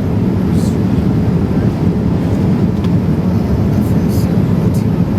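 Steady drone of a Boeing 787-8 Dreamliner airliner cabin in flight: an even low rumble of engines and airflow, with a few faint brief clinks or voices in the cabin.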